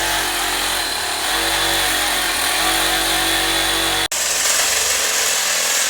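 Power tool cutting marble, its motor running steadily under load with the pitch wavering. The sound breaks off sharply about four seconds in and a similar cutting noise carries on.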